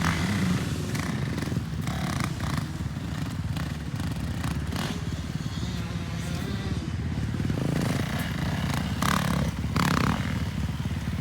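Dirt bike engine running through the whole stretch, with a few sharp clattering noises and a louder swell near the end.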